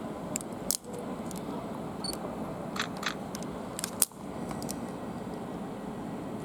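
Handling clicks and knocks on the recording device over a steady background hum of station noise. There is a sharp click just under a second in and another about four seconds in, each followed by a brief dip, with a few lighter ticks in between.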